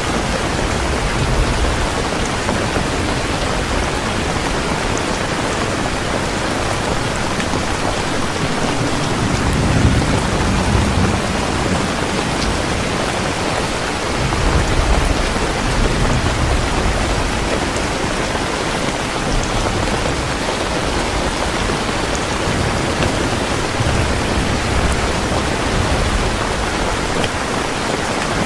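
Heavy rain falling steadily as a dense, even hiss. Low rumbles of thunder swell up about a third of the way in and again near the middle.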